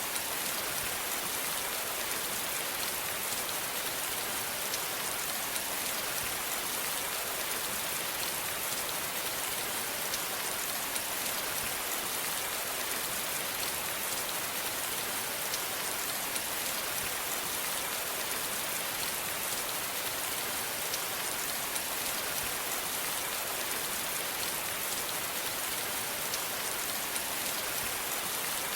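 Steady, continuous rain falling, an even hiss with many fine individual drop patters.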